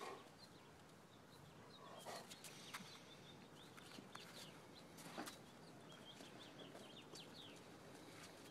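Near silence with faint, scattered short falling bird chirps, and a few soft crunches.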